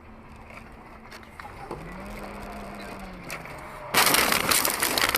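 Quiet road noise picked up by a dashcam, then, about four seconds in, a sudden loud noisy crash of a vehicle collision that keeps going.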